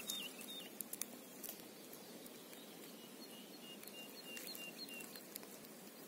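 Faint forest ambience: a few light clicks and rustles as fingers handle a mushroom in pine litter, then a distant bird giving a row of about seven short, evenly pitched high notes, some three a second, in the second half.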